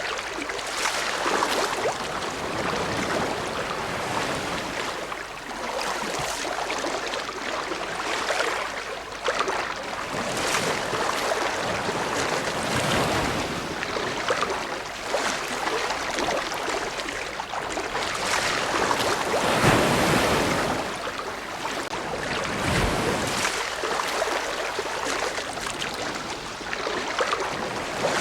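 Ocean surf: waves washing in and breaking, a steady rush that swells and ebbs every few seconds, loudest about two-thirds of the way through.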